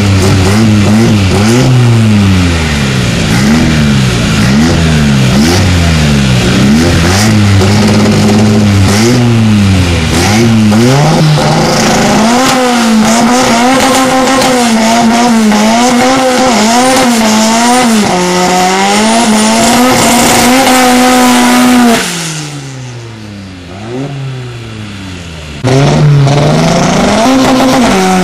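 Turbocharged SR20DET four-cylinder engine of a Datsun 1200 ute revving repeatedly at a standstill, its pitch rising and falling about once a second. From about twelve seconds in it is held at higher revs with quick dips. It drops away briefly about three-quarters through, then comes back loud with more revving near the end.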